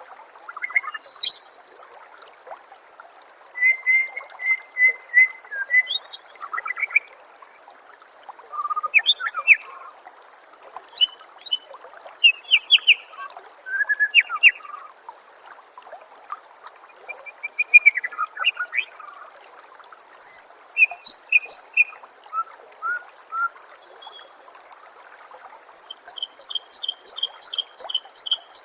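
White-rumped shama (murai batu) singing a varied string of whistles, trills and chirps in short bursts, ending in a rapid run of evenly spaced notes, over steady trickling water.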